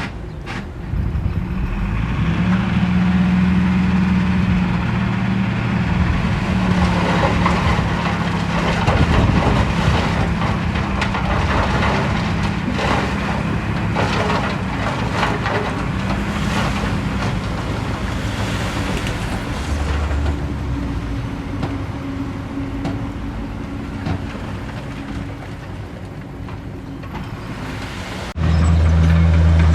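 Heavy diesel engine of earth-moving machinery running under load, with stones clattering and cracking through the middle stretch. Near the end it cuts suddenly to a louder, steadier engine note.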